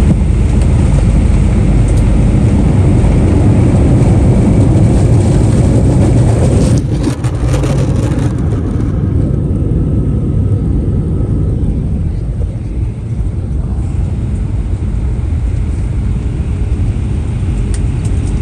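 Cabin noise aboard an Airbus A319 on its arrival: a loud, steady roar of engines and airflow. About seven seconds in there is a brief clatter, and then the noise drops abruptly to a lower, duller rumble.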